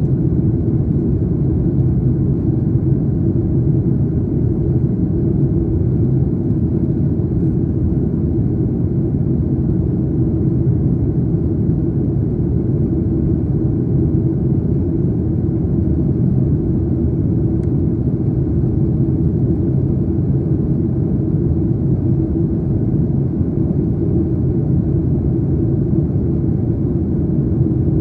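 Airliner cabin noise in flight: a steady low rumble of jet engines and airflow, with a faint hum, unchanging throughout.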